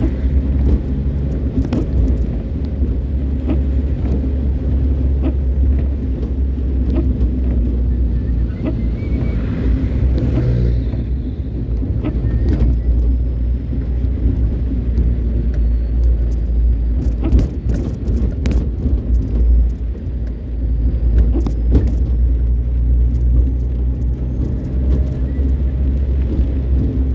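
Car driving on a highway: a steady low engine and road rumble, with scattered short knocks and clicks and a brief hiss swelling and fading about ten seconds in.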